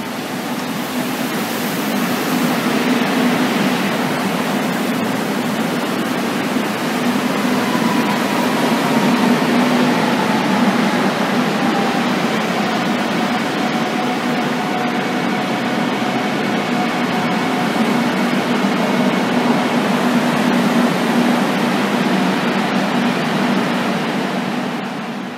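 Electric commuter train pulling into a station platform and braking to a stop: steady rumble of wheels and running gear, with a faint whine that slowly falls in pitch as it slows. The noise dies away just before the end as the train halts.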